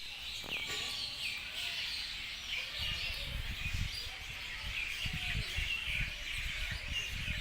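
Many small birds chirping at once in a continuous chatter of short high calls. From about three seconds in, irregular low rumbling thumps sound beneath them.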